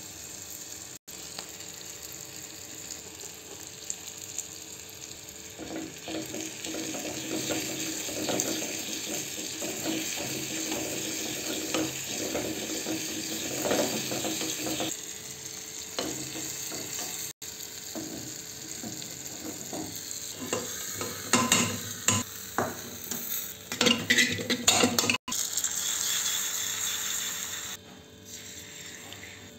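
Chopped tomato, onion and green chilli sizzling in oil in a small clay kulhad, with a spoon scraping and stirring against the clay. A cluster of knocks and clatter comes near the end.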